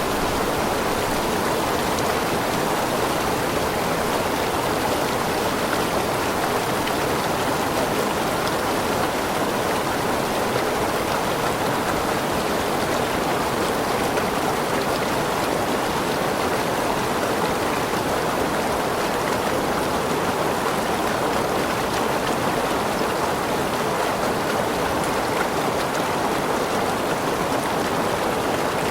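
Waterfall rushing steadily, an even splashing roar of falling water.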